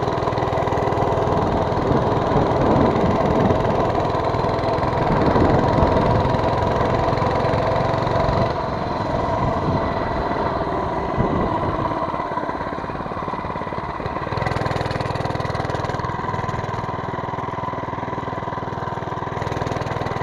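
Mini bike's small engine running, its speed wavering in the first half and then settling steadier.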